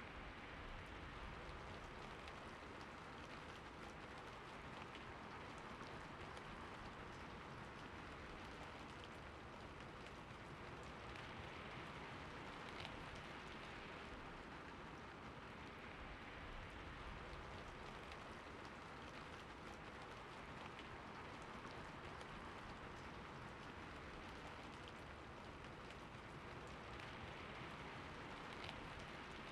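Steady rain falling, an even hiss with scattered drops ticking; a sharper drop stands out around thirteen seconds in and again near the end.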